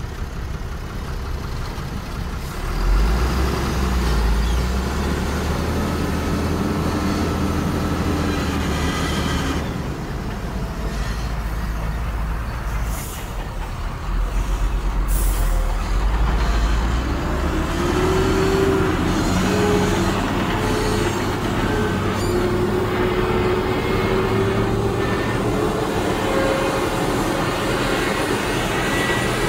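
Heavy diesel earthmoving machinery running under load, the engine rumbling and its pitch rising and wavering in the second half, with two short hisses about halfway through.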